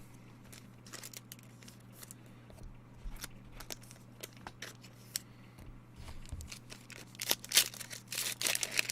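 Trading cards being handled, with small clicks and rustles, then from about seven seconds in a plastic card-pack wrapper being torn open and crinkled, louder and denser. A steady low hum sits underneath.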